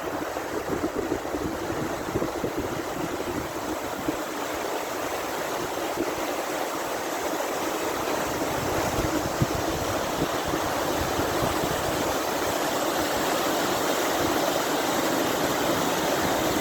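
Fast-flowing river water rushing, a steady noise that grows slightly louder.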